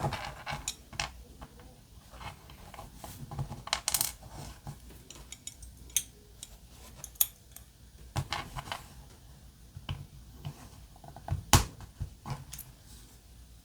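Irregular small clicks, taps and light knocks from handling small diecast model-car parts while fitting the rear tires, wheels and axles, with a sharper knock near the end.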